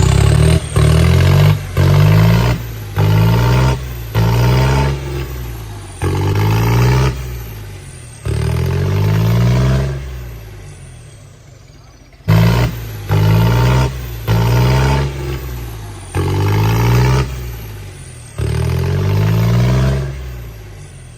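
Diesel tractor engine revved hard again and again: about five short throttle blips, each rising in pitch, then two longer revs that die away. The sequence cuts off abruptly about twelve seconds in and the same run of blips and revs plays again.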